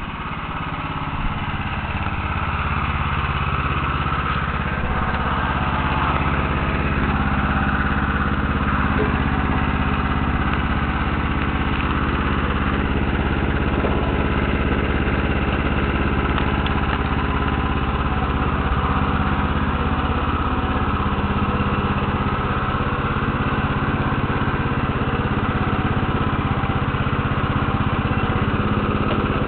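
Lawn tractor's single small engine running steadily, just back in service after sitting about six years.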